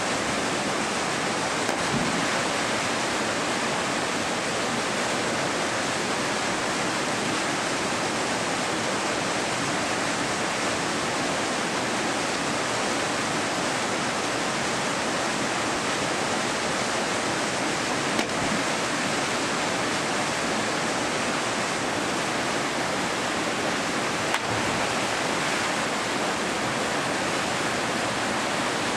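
Steady rush of falling water from a waterfall, with two faint clicks in the second half.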